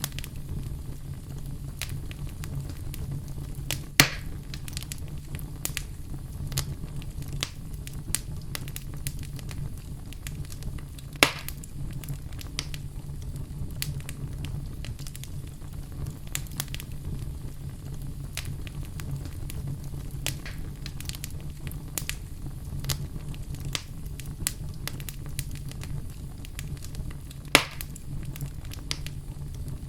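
Fire burning in a fireplace: a steady low rumble with frequent small crackles, and three louder pops about four, eleven and twenty-seven seconds in.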